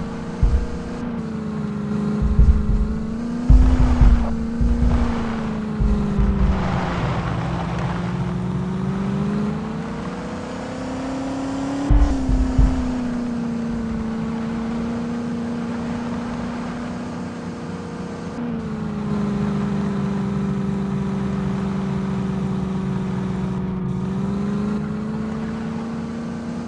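Tractor engine running steadily, its pitch sagging and rising slowly, as under changing load. Short low thumps come several times in the first half.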